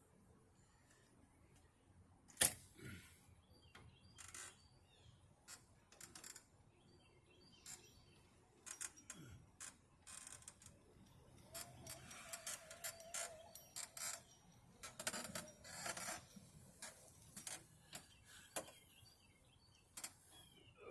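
Hand digging in dirt with a shovel: scattered scrapes, clinks and knocks, with one sharp knock about two and a half seconds in. A wavering high tone sounds for about two seconds past the middle.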